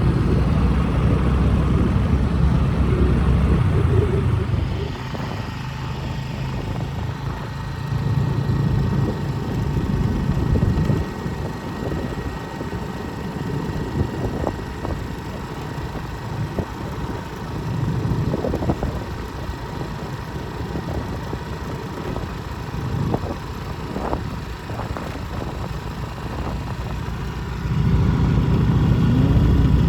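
Motorcycle running while being ridden, a steady low rumble that is louder for the first few seconds and again near the end, with a few light knocks in the quieter middle.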